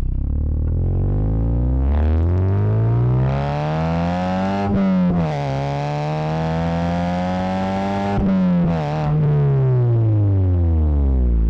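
Toyota Yaris T-Sport's four-cylinder engine through a home-built stainless steel cat-back exhaust, heard right at the tailpipe. It revs up under acceleration, drops in pitch at a gear change about five seconds in, pulls again, then falls away steadily as the car slows.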